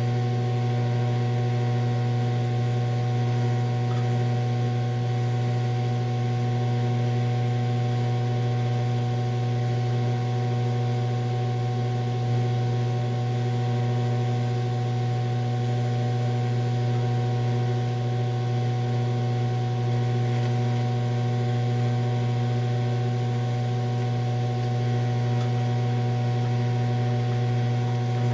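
TIG welding machine giving off a steady low electrical hum, set for DC electrode-positive welding on aluminum.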